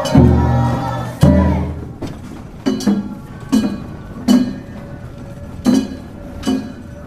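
Japanese festival percussion: two loud, ringing drum strokes in the first second and a half, then sharper single drum and metal clinking strikes at uneven intervals.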